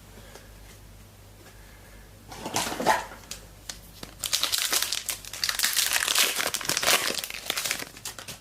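A foil trading-card packet being torn open and crinkled in the hands, with a short flurry of crinkling about two and a half seconds in, then a longer burst of crinkling from about four seconds in to near the end.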